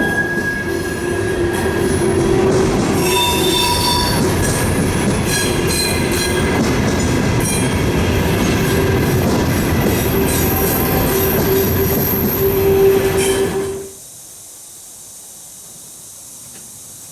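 Freight train rolling by, its steel wheels squealing on the rails in several steady tones over a heavy rumble. About 14 seconds in it cuts off abruptly to a quieter steady hiss.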